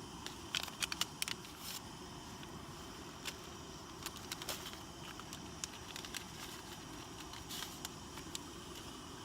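Light crinkling and sharp clicks of small items being handled while tea is made on a small camp stove, clustered near the start and again in the middle, over a steady low hiss.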